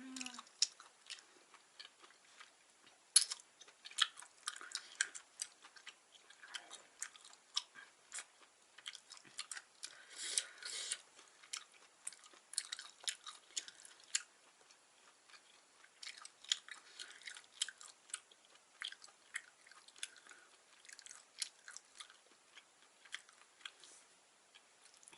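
Close-up chewing of chewy, spicy stir-fried beef intestines with vegetables (yachae gopchang): scattered wet mouth clicks and smacks, with a longer hissy stretch about ten seconds in.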